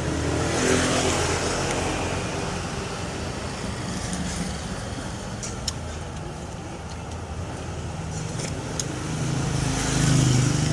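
Motor traffic passing, a steady rumble that swells about a second in and again near the end, with a couple of sharp clicks in between.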